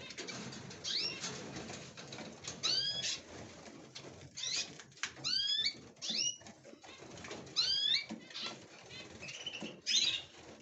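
Small cage birds in an aviary giving short repeated calls, roughly one a second, with wing flutters and light knocks in between.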